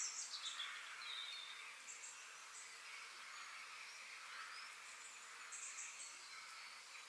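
Forest birds singing faintly, with scattered short high chirps and a brief whistled phrase about a second in, over a steady high hiss of background ambience.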